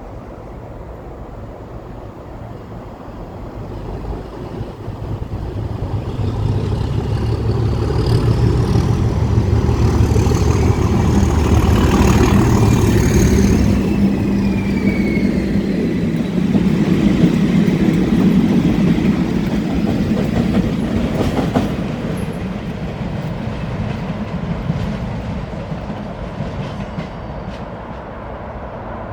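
A convoy of Class 37 diesel locomotives passing, led by a working Class 37 with its English Electric diesel engine running under power. Its turbocharger whistle falls in pitch as it goes by. The sound then fades as the trailing locomotives roll past, wheels clicking over the rail joints.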